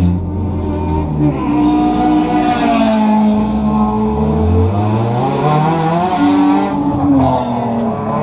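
Race car engine running while the car sits still, heard from inside the cockpit, its pitch rising and falling several times.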